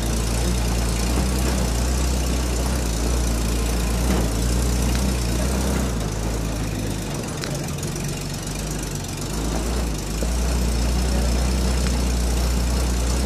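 Car engine pulling up a steep, rocky dirt track with a steady low drone. It eases off about six seconds in and builds again about ten seconds in.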